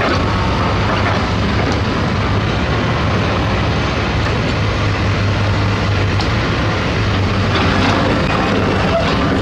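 Heavy diesel construction machinery running steadily: a constant low engine tone under broad mechanical noise.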